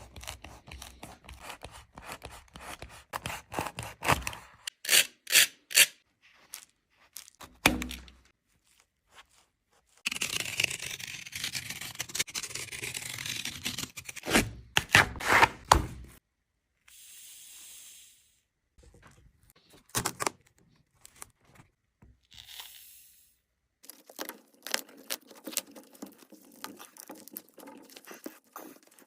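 A Nike Air Jordan 36 sneaker being cut and pulled apart: scattered knocks and scrapes, with a stretch of tearing about ten seconds in.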